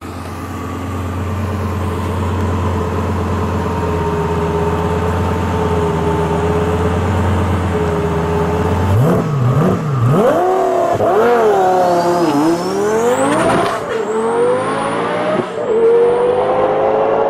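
Twin-turbo Lamborghini Gallardo V10 engine running. Its pitch holds steady for about nine seconds, then swings up and down several times as it revs and accelerates. A faint high whistle rises and falls near the end.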